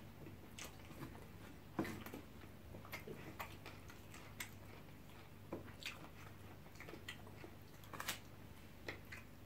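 Close-up eating sounds: quiet chewing of jollof rice, with scattered short, sharp clicks from mouths and cutlery.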